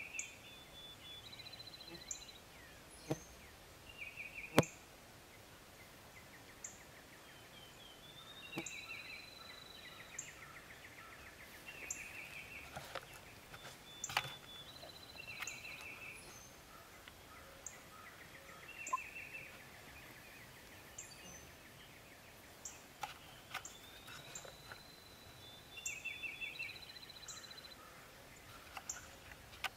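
Small birds singing, the same short high trilled phrase repeated every few seconds, with a few sharp clicks, the loudest about four and a half seconds in.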